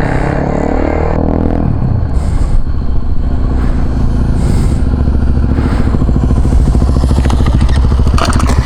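Single-cylinder supermoto motorcycle engine running steadily close by, with a fast, even firing beat.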